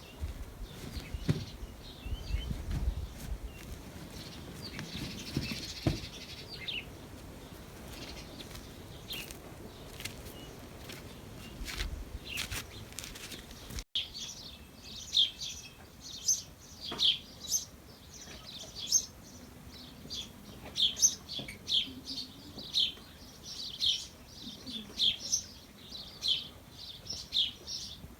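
A bird chirping repeatedly in short, high calls, about one a second, starting after an abrupt cut about halfway through. Before the cut there are only scattered low thumps and clicks.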